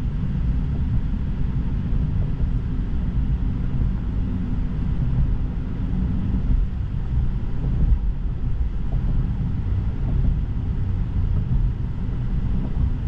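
Steady low road and tyre rumble inside the cabin of a moving Tesla electric car, with no engine sound.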